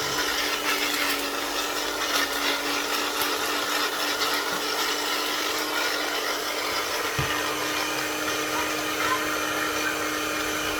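Electric blender running steadily, its motor holding one even hum as it grinds hard, dry toasted bread rusks into crumbs.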